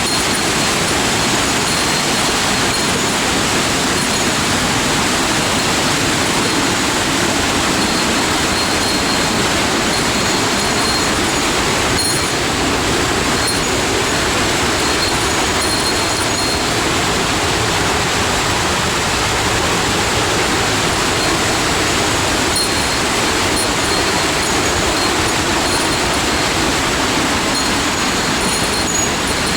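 Steady roar of water falling and rushing over rocks in a mountain gorge, loud and even throughout.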